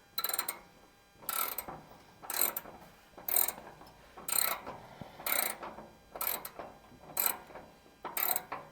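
Hand socket ratchet clicking in short strokes, about once a second, nine times, as a bolt is tightened.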